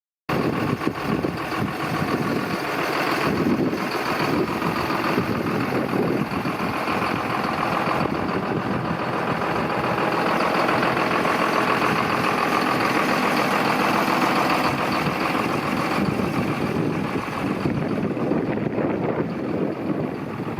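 John Deere 6920S tractor's six-cylinder diesel engine running steadily.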